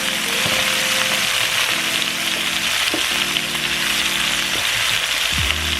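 Chopped onions and bell peppers sizzling steadily as they fry in a pan, with background music.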